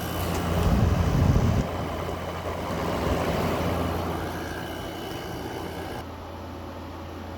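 2024 Midea 5,000 BTU window air conditioner running in cooling mode: a steady compressor hum under the rush of its fan. A brief louder low rumble comes about a second in.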